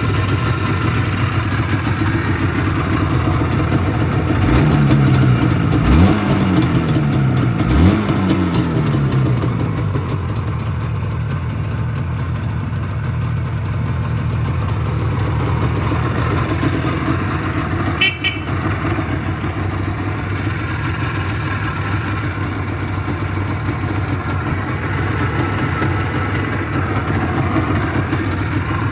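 An IZh Jupiter-4 motorcycle's two-stroke twin-cylinder engine idles steadily and is blipped three times, each blip rising and falling, between about four and ten seconds in. A single short click sounds about halfway through.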